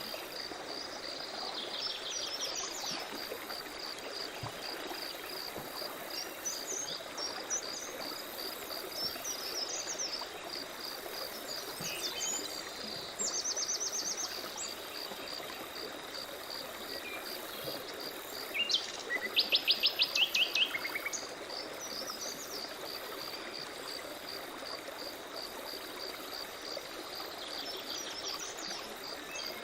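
Birds singing and chirping over the steady rush of a forest stream, with a high, even pulsing call repeating about three times a second throughout. Loud, rapid trills come twice, once about a third of the way in and more loudly a little after the middle.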